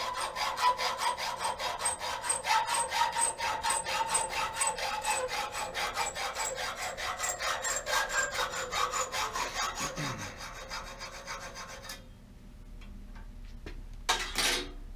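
A steel thumb screw clamped in a vise being sawn through to trim it to length: fast, even rasping strokes with a metallic ring that slowly drops in pitch as the cut goes on. The sawing stops abruptly about twelve seconds in, and a sharp clank follows near the end.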